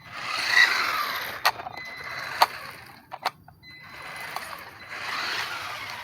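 WLtoys 1/12-scale 4WD electric RC truck driving in two spurts: its electric motor and gearbox whir with a faint steady whine, and a few sharp clicks come in between.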